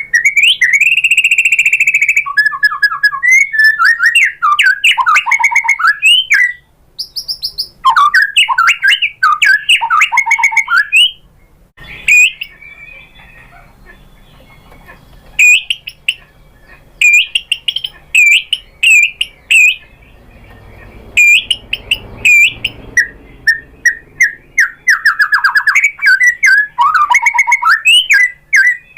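White-rumped shama singing: rapid, varied bursts of whistled and chattering phrases broken by short pauses. In the middle comes a run of short, sharp notes, repeated about once or twice a second, before the dense song resumes near the end.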